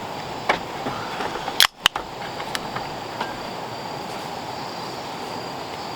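Steady rush of a mountain stream with insects chirping in a faint high steady note. A few light clicks, and a sharp double click a little under two seconds in.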